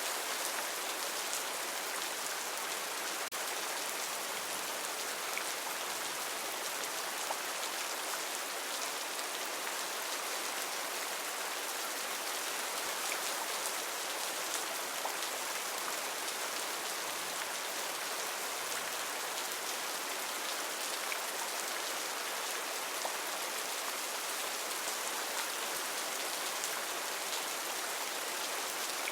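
Heavy rain falling steadily: an even hiss with many fine drop taps scattered through it.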